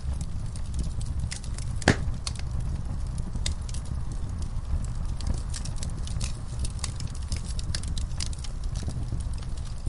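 Wood fire burning in a fireplace: a steady low rumble of flames with irregular sharp crackles and pops from the burning logs, one pop louder than the rest about two seconds in.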